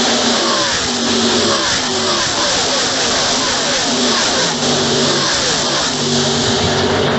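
Pack of NASCAR Truck Series race trucks passing at speed, their V8 engines overlapping, with one truck after another dropping in pitch as it goes by.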